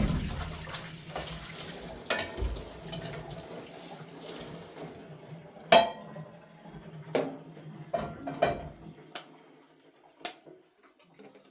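Water running or splashing with dishes and pots clattering, as in washing up by hand. The water stops about five seconds in, and a handful of separate clinks and knocks of dishes follow.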